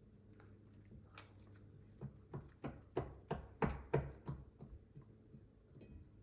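Close-miked eating of giant tiger prawns by hand: a run of sharp, crackly, smacking clicks, about three a second, for a couple of seconds midway, then a few fainter clicks.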